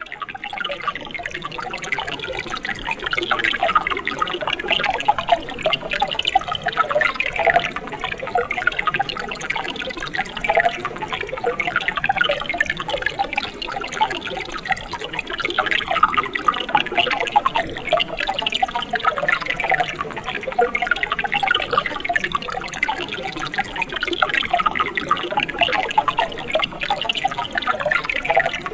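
Mountain stream water flowing steadily, with constant small splashes and gurgles.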